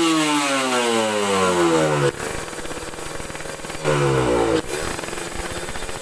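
Kawasaki Ninja R's two-stroke single-cylinder engine through an aftermarket Aitech exhaust, being revved by the throttle. The revs fall away over the first two seconds, it drops to a rough idle, and it gives another short blip of the throttle about four seconds in.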